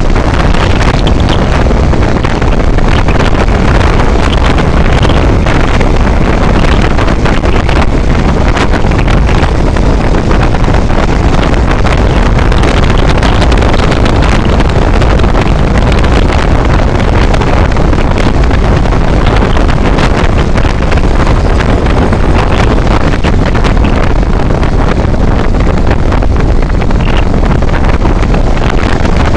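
Loud, steady wind buffeting the microphone over the rumble of a moving vehicle, with no letup.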